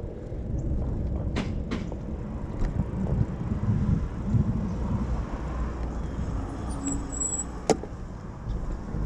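Wind rumbling on the microphone and road noise while riding a bicycle, with a few sharp clicks, the loudest near the end.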